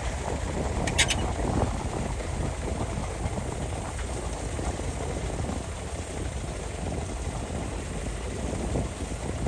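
Excavator's heavy diesel engine running steadily with a low rumble while it works dirt, with a brief high-pitched metallic clink about a second in.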